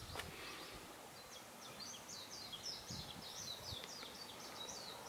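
A small bird singing faintly: a fast, jumbled run of high chirping notes that starts about a second in and keeps going, over a quiet background hiss.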